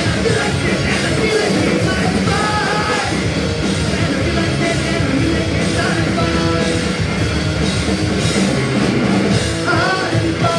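Punk rock band playing live, loud and continuous, with a singer's voice coming in at times.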